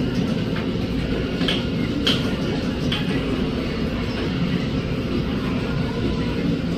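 Norfolk Southern freight train rolling past, a steady rumble of cars on the rails with a few sharp clicks and clanks from the wheels.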